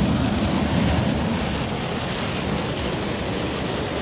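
Hard rain falling steadily in a strong wind, an even dense downpour with a heavy low rumble.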